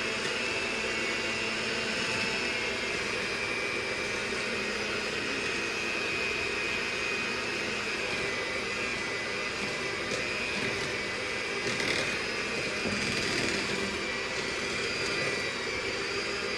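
Electric hand mixer running steadily through cookie dough with a high, even whine, working butter chunks into the batter; a couple of brief knocks come from the beaters against the bowl around the middle.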